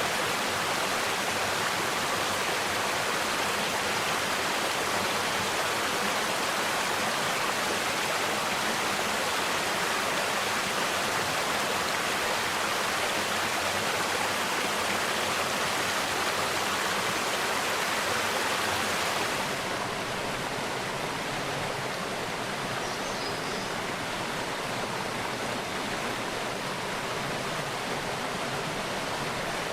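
Mountain stream rushing over rocks, a steady even rush of water. About two-thirds of the way through it switches to a softer, duller flow, with a couple of faint high bird chirps.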